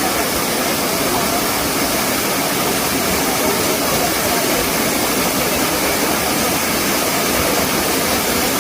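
Waterfall rushing: a steady, loud noise of falling water.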